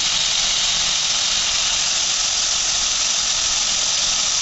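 Chicken pieces frying in hot oil and sauce in a steel wok, a steady sizzle.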